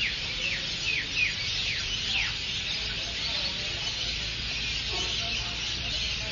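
A large flock of birds calling together in a dense, continuous high chatter. In the first couple of seconds about six short whistled notes each fall in pitch. A faint low hum runs underneath.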